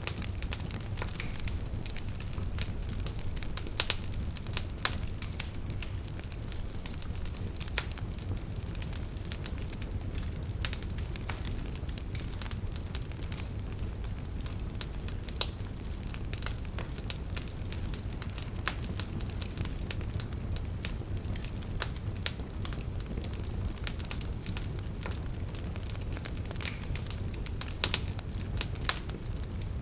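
Wood fire burning in a fireplace: a steady low rumble of the flames with irregular crackles and sharp pops of the burning logs, a few pops standing out louder.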